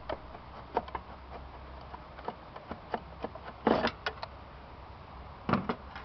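Scattered clicks and knocks of an engine control unit being handled as it is taken out of a Volvo 850, with a louder clatter a little past halfway and a sharp knock near the end, over a steady low hum.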